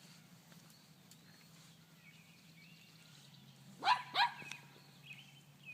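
Dog barking: two sharp barks in quick succession about four seconds in, then a softer third.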